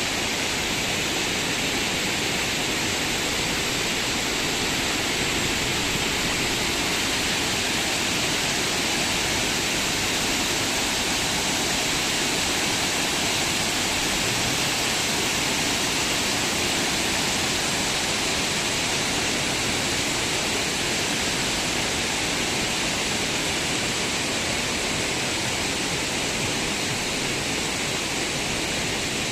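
Steady, unbroken rush of falling or running water.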